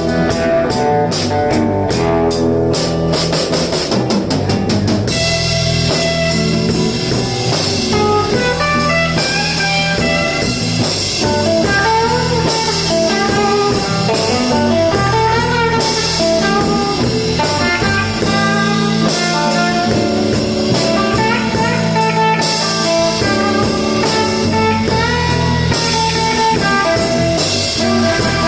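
Live electric blues band in an instrumental break: lead electric guitar soloing with bent notes over drum kit and bass, opening with a rapid drum fill in the first few seconds.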